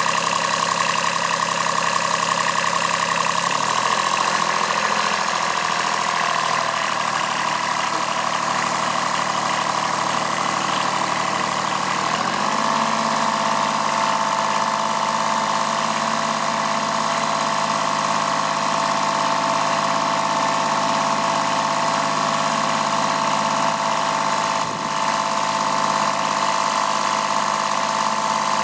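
Kubota B7001 tractor's D850 three-cylinder diesel engine running steadily. Its pitch drops about three seconds in and climbs back up about twelve seconds in, then holds steady.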